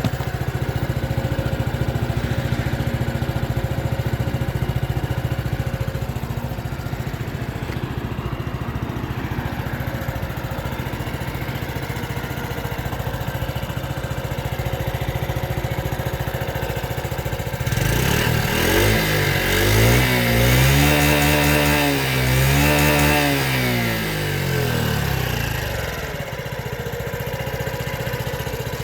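Honda Super Cub 50's small single-cylinder four-stroke engine idling steadily, then revved up about two-thirds of the way in, rising and falling twice before dropping back to idle.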